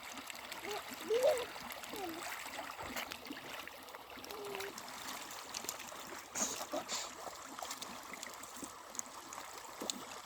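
Water trickling and gurgling steadily, with a few splashes about six and a half seconds in and some short sliding calls earlier on.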